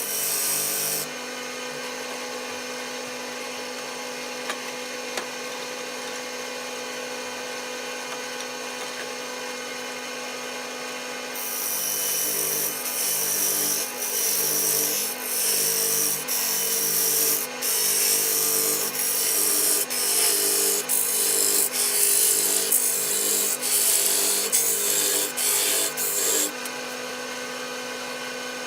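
Wood lathe running steadily with a constant motor hum. From about twelve seconds in, a tool is worked against the spinning walnut blank in short hissing strokes about one a second for some fifteen seconds, then the lathe runs on alone.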